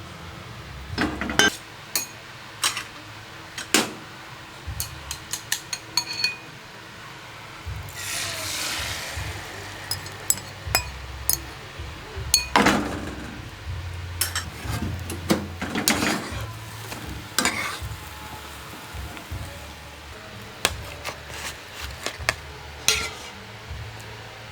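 Cooking utensils knocking and clinking against pots and pans in irregular strokes, with a short hissing spell about eight seconds in.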